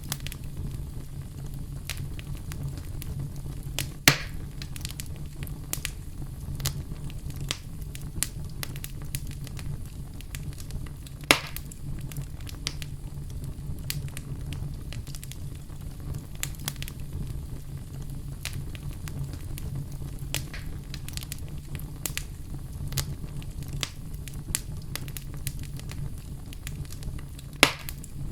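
Campfire burning with a steady low rumble and frequent small crackles, and three louder pops about 4 seconds in, about 11 seconds in and near the end.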